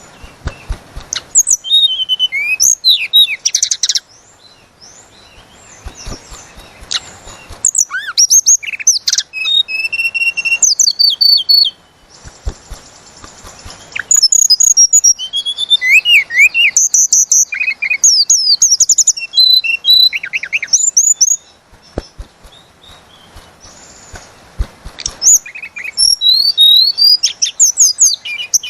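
A tledekan gunung songbird singing long, fast phrases of high whistles and trills, in four loud bursts with short pauses between.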